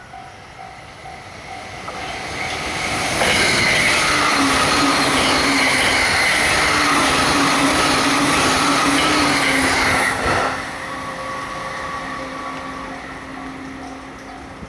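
An electric train passing a level crossing at high speed. The rushing rail noise builds for about three seconds, stays loud with a steady whine for about seven, then drops off suddenly as the end of the train goes by. The level-crossing warning bell rings in an even repeating pattern before and after the pass.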